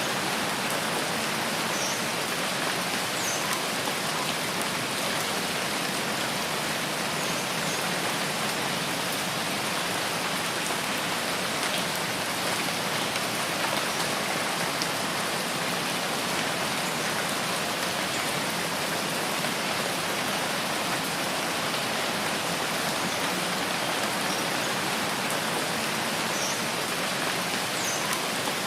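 Steady rain falling, an even hiss with no breaks or swells. A few faint, short, high chirps stand out now and then.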